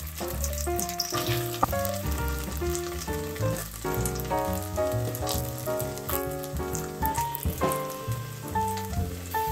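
Korean rice cake pieces sizzling as they fry in cooking oil in a nonstick frying pan, with background music playing throughout.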